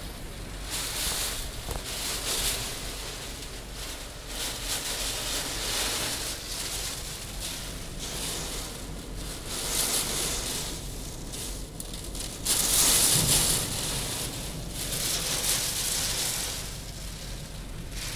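Typhoon wind and rough sea: a rushing noise that swells and fades in gusts every couple of seconds, loudest about thirteen seconds in.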